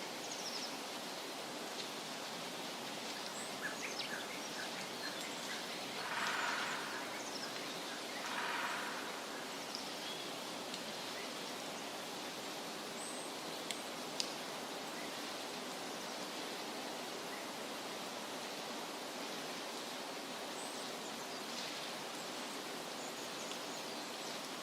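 Forest ambience: a steady hiss-like wash of outdoor noise with faint, scattered bird chirps. Two short, louder rushes of noise come about six and eight and a half seconds in, and a single sharp tick near fourteen seconds.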